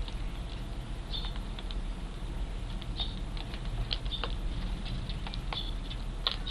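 Juvenile Eurasian tree sparrows calling: short, high chirps and ticks, a few a second at irregular intervals, over a steady low rumble.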